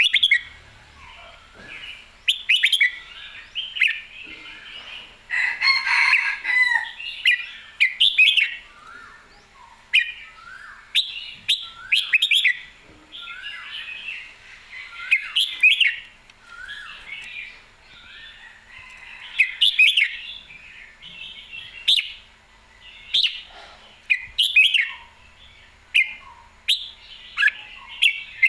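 Red-whiskered bulbul singing lively and in full voice: short, bright whistled phrases, repeated every second or so, with a denser run of song about five to seven seconds in. The bird is described as spirited and ready to fight.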